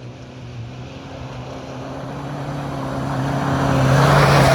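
Pickup truck racing on a dirt course, coming toward the listener and passing close by. Its engine holds a steady note while the engine and tyre noise build to a peak about four seconds in, then start to fade.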